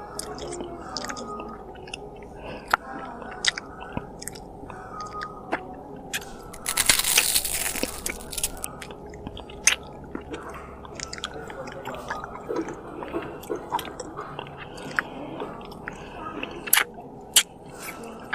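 A person chewing and biting food close to the microphone, with many small wet mouth clicks. About seven seconds in there is a louder burst of rustling, crunchy noise lasting a couple of seconds.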